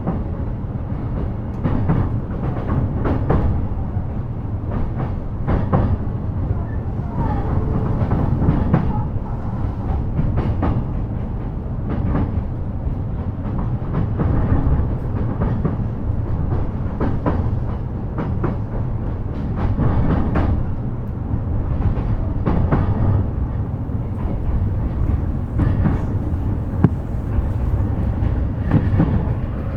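Running noise heard inside a JR East E233 series electric train: a steady low rumble with wheels clacking irregularly over rail joints.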